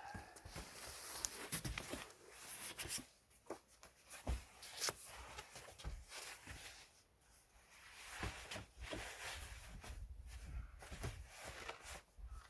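Irregular knocks, thuds and scuffs of pine firewood logs being handled and loaded into a vehicle.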